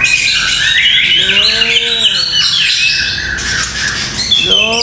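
White-rumped shama singing a rapid, unbroken run of varied high whistles, trills and harsh bursts: the rough 'tembakan' phrases that murai batu keepers prize. A low, drawn-out voice rises and falls twice, about a second in and again near the end.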